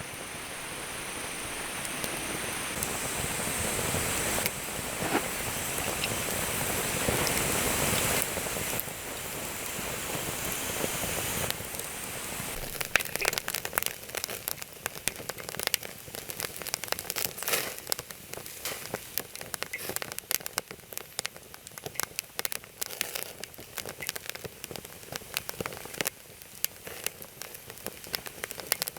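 Campfire sound: a steady hiss broken by several abrupt cuts, then crackling with sharp, irregular pops from about twelve seconds in.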